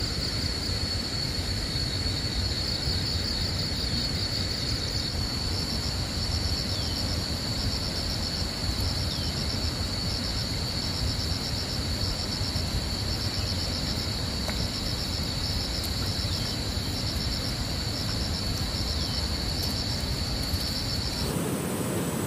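Insects trilling steadily in a high, pulsing buzz over a constant low rumble, with a few faint short falling chirps. About a second before the end the insect sound stops and a broader rushing noise takes over.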